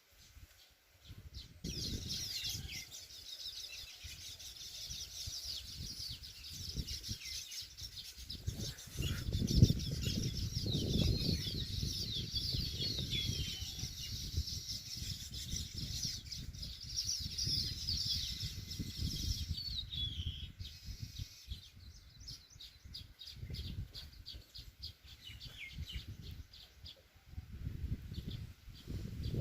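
A flock of weaver birds chattering at their nests: many high, quick chirps and sliding calls overlapping, thinning out to scattered calls after about 20 seconds. A low rumble runs underneath, loudest around the middle.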